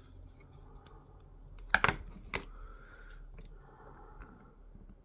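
Small parts handled at a workbench: light rubbing and fiddling, with a quick cluster of sharp clicks about two seconds in and one more click just after.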